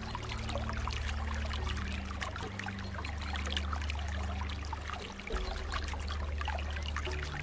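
Flowing water: a continuous pouring and trickling with many small splashes over a steady low rumble.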